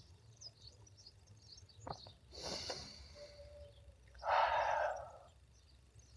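Small birds chirping faintly and steadily in the background. Two short breathy rushes of noise break in, one about two and a half seconds in and a louder one about four and a half seconds in.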